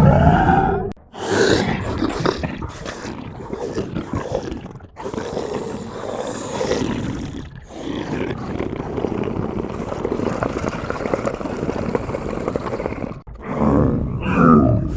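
Science-fiction alien creature sound effects: a string of throaty creature cries and rough, noisy breaths. There are short breaks about a second in, near five and eight seconds and near thirteen seconds, followed by a cry with wavering pitch near the end.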